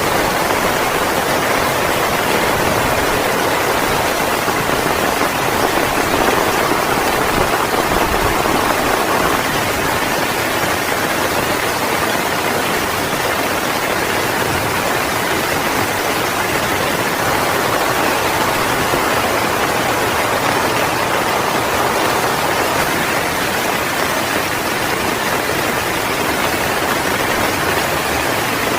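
Heavy rain falling steadily, a dense even hiss with no thunder, slightly louder for a few seconds about a quarter of the way in.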